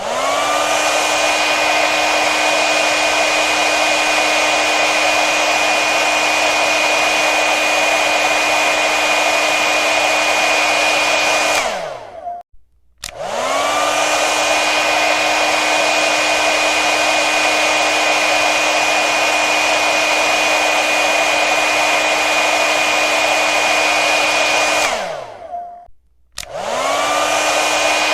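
Hair dryer blowing: a steady rush of air with a steady motor whine over it. Twice it is switched off, its whine falling as the motor spins down, and after a second or so it is switched back on, the whine rising as it spins up.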